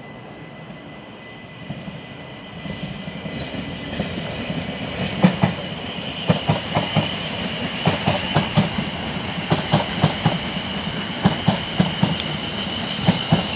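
A twelve-car South Western Railway Class 450 Desiro electric train, three units coupled, passing. It grows louder as it approaches, then its wheels clatter over the junction's points and rail joints under a steady high whine.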